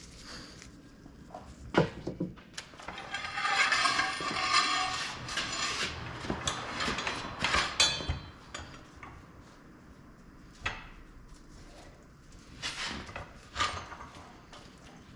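Hand tools and metal parts being handled under a car: sharp knocks and clinks, with a denser stretch of clatter from about three to eight seconds in.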